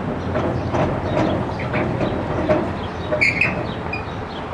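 Railroad train rumbling with irregular clanks and knocks, and a couple of short high squeaks about three seconds in.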